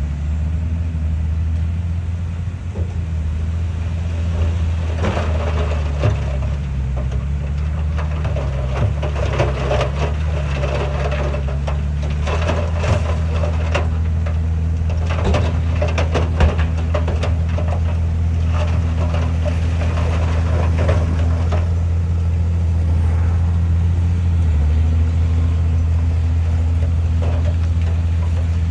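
Heavy diesel engine of earthmoving machinery running steadily with a low hum. From about five seconds in to about twenty, stones and soil clatter and scrape over it, then the clatter eases off.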